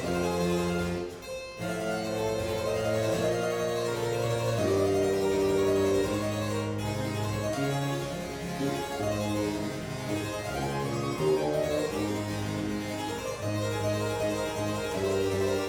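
Baroque chamber music: a harpsichord with wind instruments, a recorder and a bassoon, playing a sonata movement. Long held notes move in a low line and a higher line.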